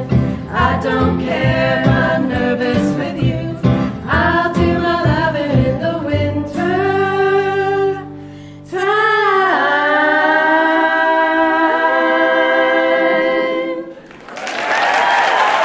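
Women's choir singing the last phrase of the song with guitar, bass and percussion, then closing on two long held chords. Audience applause breaks out near the end.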